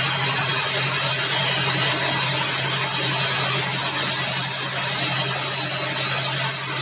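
Sawmill band saw machinery running, a steady low hum under dense, even noise.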